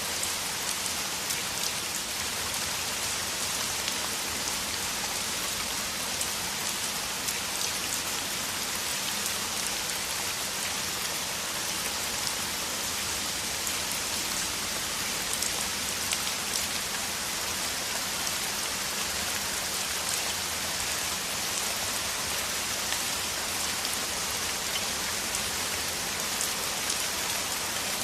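Heavy rain pouring down steadily: a dense, even hiss of drops falling on surfaces, with individual drop ticks scattered through it.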